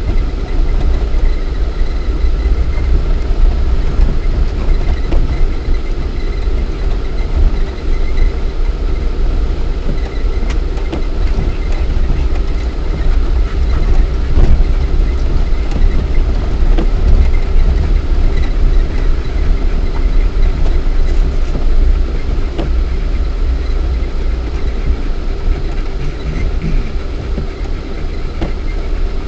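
Lada Niva 1.7i inline-four engine and drivetrain running steadily as the 4x4 drives over rough off-road ground, heard from inside the cabin. There is a deep rumble, with scattered knocks and rattles from the body and suspension.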